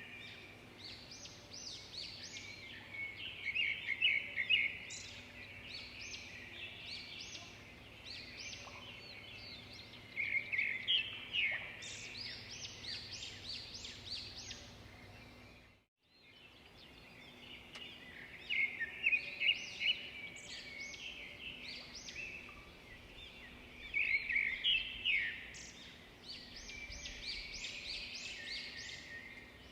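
Birds chirping and singing in bursts of short, high calls over a faint low hum. The sound cuts out for a moment about halfway through, then the chirping picks up again.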